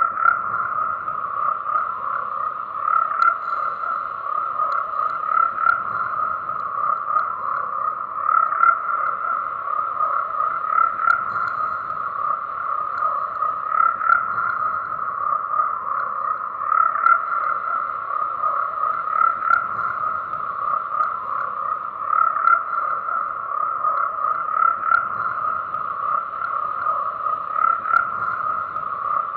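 Chorus of frogs croaking densely and without break, the calls swelling in loudness about every two and a half to three seconds.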